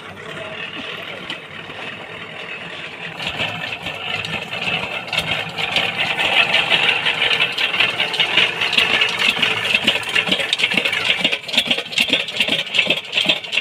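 A machine's motor running with a continuous rattle, getting louder about three seconds in.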